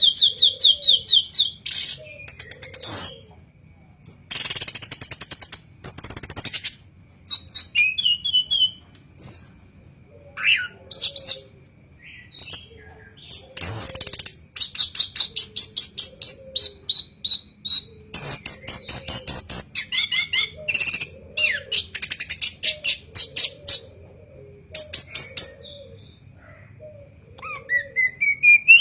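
Chestnut-capped thrush (anis kembang) singing a loud, varied song: rapid trills, whistled notes that glide up or down, and a few harsh scratchy phrases, one after another with short gaps.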